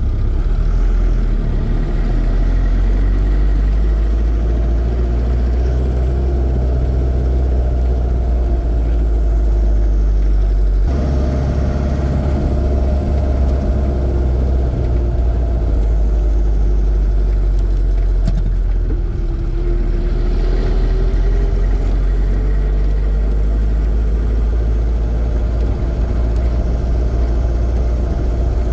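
Land Rover Series 2a running at road speed, a steady engine and drivetrain drone. The sound changes abruptly about eleven seconds in, and a tone in it rises around twenty seconds in.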